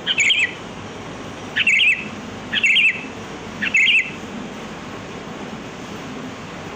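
Sooty-headed bulbul (kutilang) calling: four short, quick warbling phrases, about a second apart, in the first four seconds, then a pause with only a steady background hiss. It is the species' lure call.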